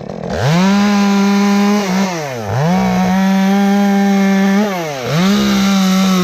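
Chainsaw run at full throttle in three long pulls, the engine dropping off briefly between them, as it cuts into the limb to make the notch (the mouth of the hinge) for felling it.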